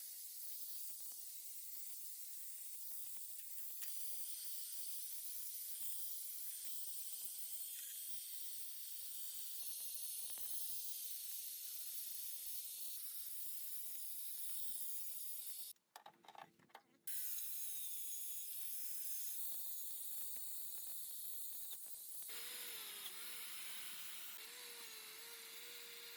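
Steady high hiss with a faint steady hum underneath. It drops out briefly about sixteen seconds in, then comes back.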